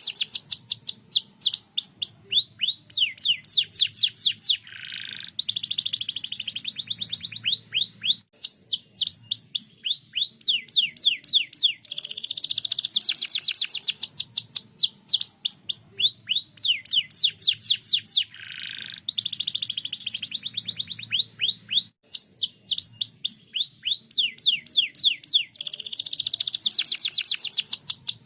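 Domestic canary singing a long, fast song of rapid trills: runs of quick downward-sweeping notes, several a second, alternating with denser buzzy rolls, with short breaks about five and eighteen seconds in.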